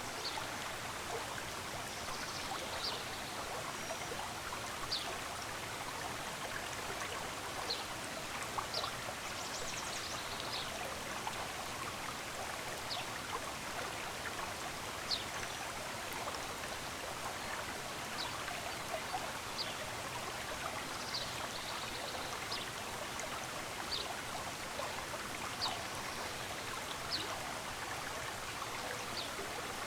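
Small stream running steadily, with short, high bird chirps repeating every second or two over it.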